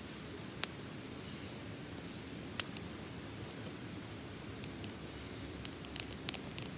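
Small wood fire burning in a metal colander fire stand: a steady low rumble with sharp crackles and pops, a few at first and a quick cluster of them near the end.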